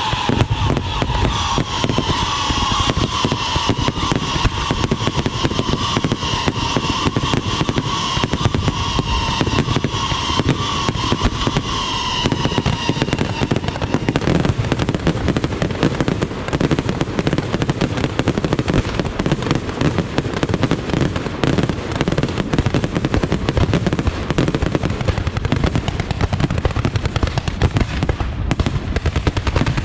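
Fireworks and firecrackers going off in a dense, unbroken string of rapid bangs and crackles. A held tone with overtones sounds over it for about the first thirteen seconds, then stops.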